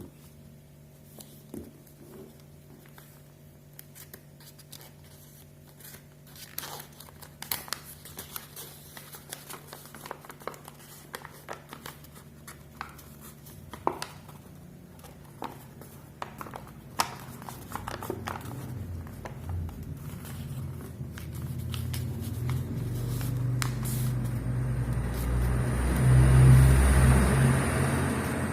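Sheet of paper being folded and creased by hand, with scattered crinkles and taps. In the last ten seconds a low rumbling noise swells up, loudest near the end, with a faint high whine over it.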